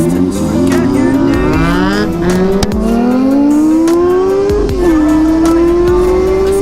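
A 400 cc inline-four motorcycle engine accelerating under load. The pitch climbs steadily for about four and a half seconds, then drops sharply at an upshift, and the engine pulls up again in the next gear.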